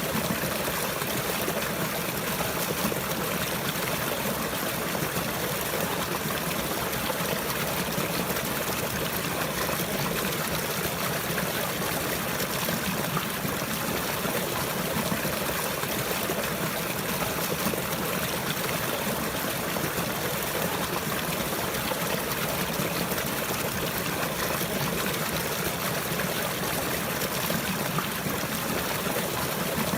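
Running water flowing steadily, an even rushing and trickling with no breaks or changes.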